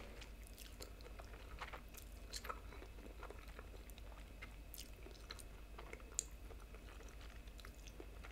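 A person quietly chewing a mouthful of noodles, with many small, faint mouth clicks and one slightly sharper click about six seconds in.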